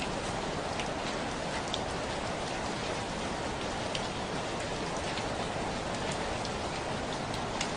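Steady rainfall, an even hiss with scattered individual drops ticking close by.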